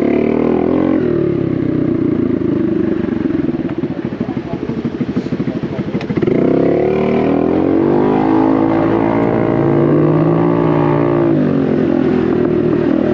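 Honda Navi's small single-cylinder engine running through an aftermarket Vance & Hines exhaust while riding. Its revs climb about six seconds in, hold steady, then drop back near the end as the throttle eases off.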